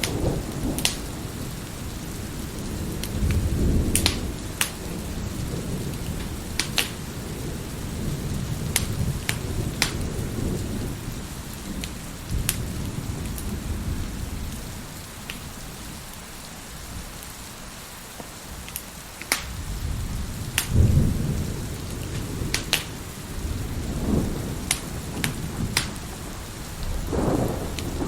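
Wood fire crackling with scattered sharp pops over steady heavy rain, while low rolls of thunder swell and fade several times, the strongest a little past the middle and another near the end.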